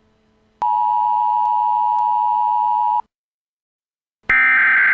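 Amber Alert emergency alert tones. A steady, loud single-pitched beep lasts about two and a half seconds and cuts off. After a second of silence, a harsher, buzzier alert tone begins near the end.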